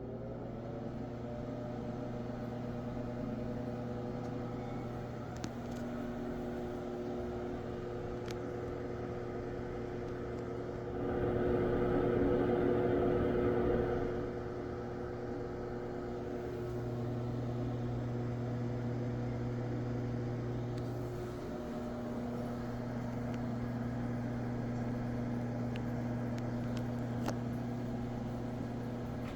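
Penn Barry Zephyr exhaust fan running at speed right after startup: a steady motor hum with several whining tones, which finish rising and settle at the very start. About eleven seconds in, a louder rush of noise swells for about three seconds, then the steady hum goes on.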